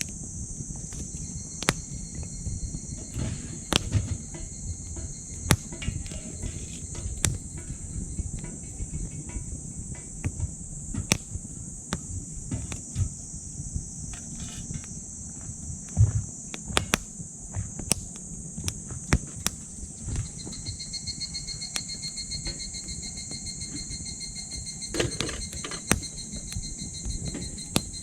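Wood fire crackling and popping in a small titanium wood stove, with irregular sharp snaps over a low rumble. Insects trill steadily and high behind it, and about two-thirds of the way in a second insect joins with a lower, pulsing trill.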